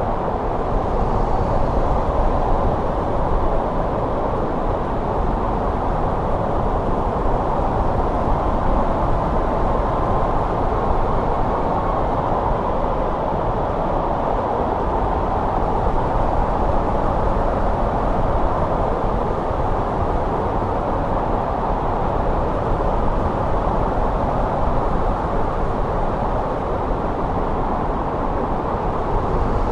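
Winter snow wind blowing in a steady, dense rush with no gusts or breaks, and a faint whistle about a third of the way in.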